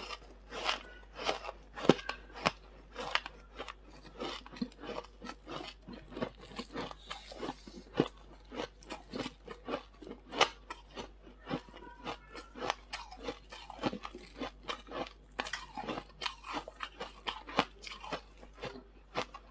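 Freezer frost being chewed close to the mouth: a steady run of squeaky, crisp crunches, about two or three a second.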